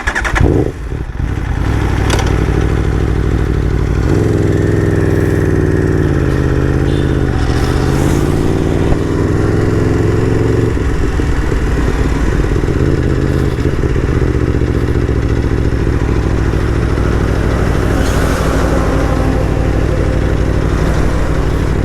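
Aprilia RSV4 RF's V4 engine just started and running at idle. Its note wavers and dips during the first ten seconds or so, then settles to a steady idle.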